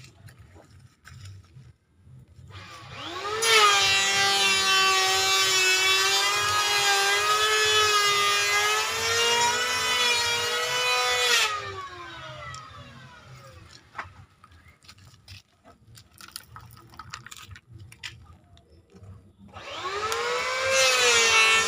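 Small electric motor of a toy truck whining as it spins up to speed and runs steadily for about eight seconds before winding down, then spinning up again near the end.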